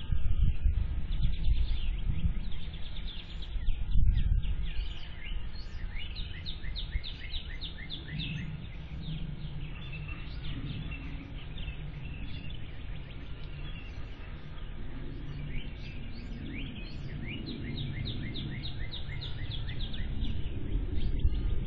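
Birds singing in repeated runs of short, quick falling chirps over a low rumble, picked up by an outdoor security camera's microphone. The rumble is strongest in the first few seconds and eases off as the birdsong picks up.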